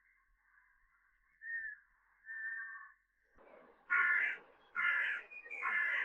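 A crow cawing: a couple of fainter calls, then three loud, harsh caws about a second apart near the end.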